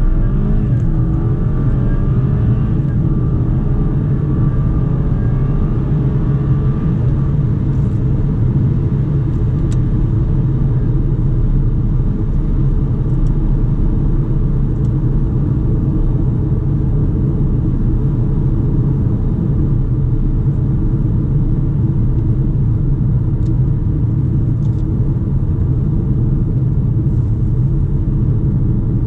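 BMW 420i's tuned B48 turbocharged 2.0-litre four-cylinder accelerating, its pitch rising for the first few seconds. It then settles into a steady low drone with road noise at speed.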